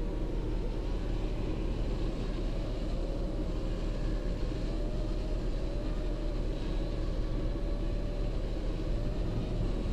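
Steady low rumble and hum of an idling car heard from inside the cabin, with a faint wavering tone above it.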